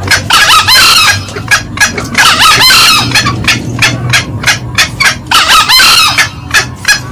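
Green junglefowl calling loudly: a fast, steady run of short clucks, about three a second, broken three times by a longer harsh crow, about half a second in, near three seconds and near six seconds.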